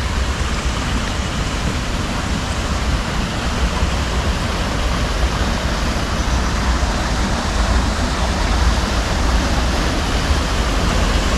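Waterfall rushing in a steady roar of falling water, with a heavy low rumble, growing a little louder toward the end.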